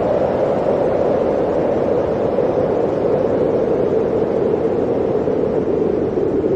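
Blizzard wind blowing in a steady, loud rush that sinks slowly in pitch.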